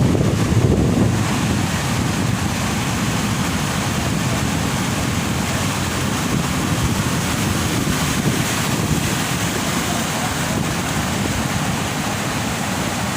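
Heavy ocean surf breaking and rushing on the shore, a steady deep rumble, with wind buffeting the microphone.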